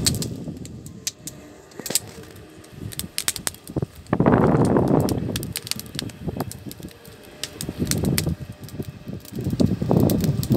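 Campfire crackling and popping under a boiling kazan, with sharp snaps scattered throughout and three louder rushing bursts: a long one about four seconds in, a shorter one near eight seconds, and one just before the end.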